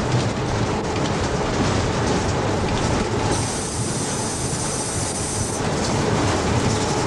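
Train running along the track, heard from the locomotive cab window: a steady rumble of wheels on rail mixed with rushing air. A high hiss joins in for about two seconds midway.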